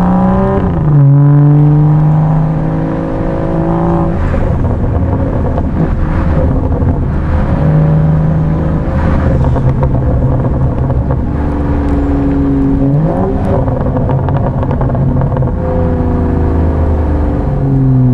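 BMW 335i's turbocharged inline-six, stage-2 tuned, running under way inside the cabin, its pitch stepping between gears. The revs drop about a second in, hold fairly steady, and rise again about 13 seconds in and near the end.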